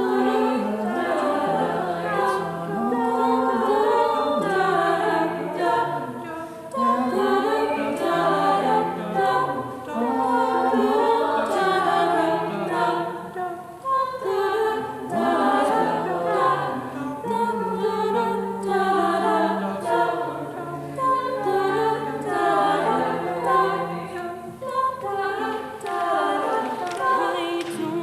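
A choir singing in several parts, with held notes and brief pauses between phrases.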